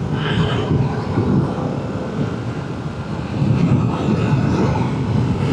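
Yamaha R7's parallel-twin engine running under way, heard from the rider's own microphone with wind rush over it; it gets louder about three and a half seconds in.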